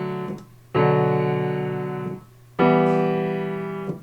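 Piano chords struck and held, two in turn, each fading for about a second and a half before being released: a minor chord being tried by ear for the song's fourth chord, which turns out to be major.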